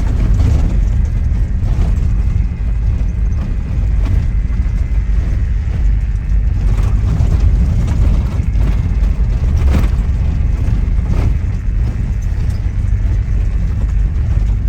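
Safari vehicle driving on an unpaved park track, heard from inside: a steady low rumble of engine and road, with a few faint knocks along the way.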